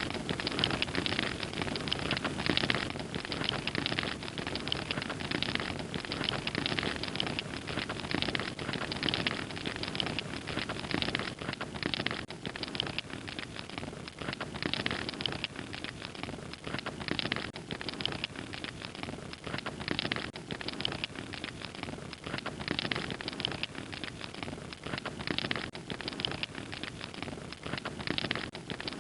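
Fire crackling steadily, a dense run of small pops and snaps over a low rushing bed.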